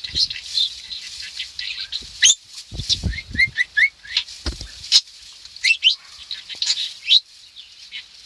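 Pet budgerigar chattering and warbling non-stop: quick high chirps and rising whistles, with a run of four short notes about three seconds in. A few low thumps sound underneath.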